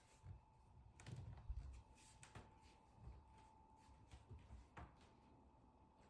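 Near silence: faint room tone with a thin steady tone, and a few light taps and soft rustles scattered through it.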